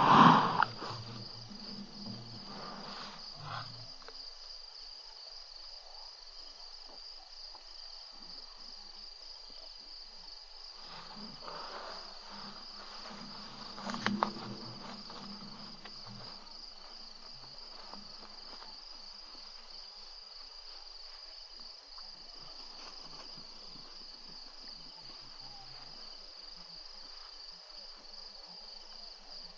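Insects chirring steadily in one high, even band, with a loud dull thump right at the start and a sharp knock about 14 seconds in.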